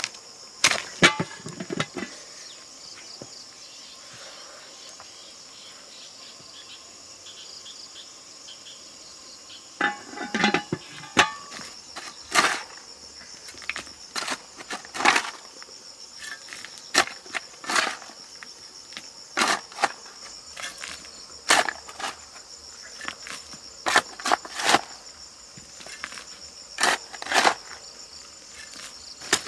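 Insects, crickets or similar, drone steadily at a high pitch. A few sharp strikes come near the start, and from about ten seconds in come repeated chopping strikes, irregular, roughly one every second or two.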